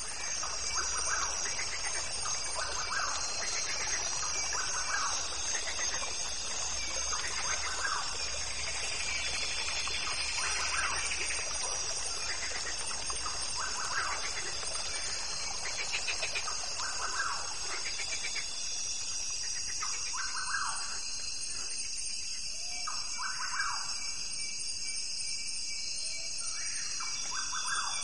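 Nature soundscape: birds giving short repeated calls every couple of seconds over a steady high-pitched buzzing background.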